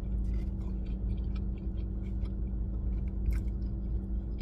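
Close-miked chewing of fast food, with small wet clicks and soft crunches scattered throughout, over the steady low hum of the running car.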